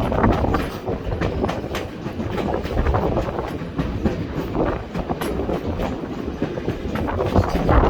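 Vintage passenger train car rolling along the track: a steady low rumble with irregular sharp clicks of the wheels over the rail joints.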